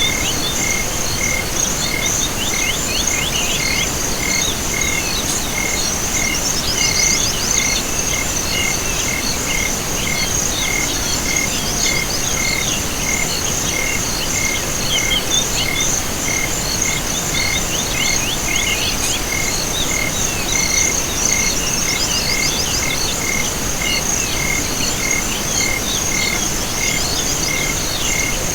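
Night chorus of insects, likely with frogs: a steady high trill, a regular chirp about twice a second, and bursts of rapid chirping that come and go.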